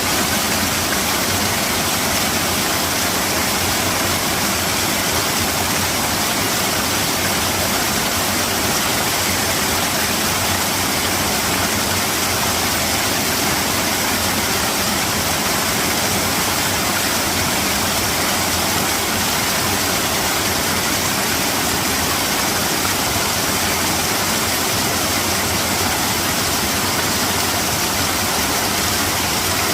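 Mountain stream water rushing steadily over rocks, an even, unbroken hiss and rumble.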